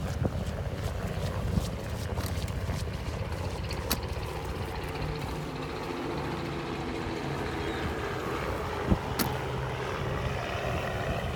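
Ride noise from a bicycle on a paved beach path: wind on a phone microphone and tyre rumble, with a couple of sharp clicks, one about four seconds in and one about nine seconds in.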